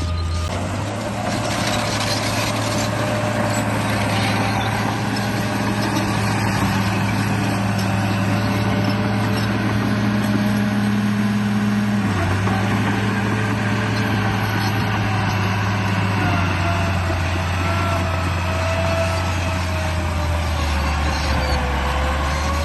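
Radio-controlled bulldozer running: a steady low hum with a motor whine that drifts up and down in pitch as it drives.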